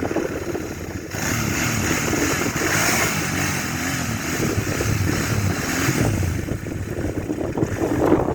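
Royal Enfield Interceptor 650's 648 cc parallel-twin engine running, its pitch rising and falling, with a rushing wind-like noise that gets louder about a second in and eases near the end.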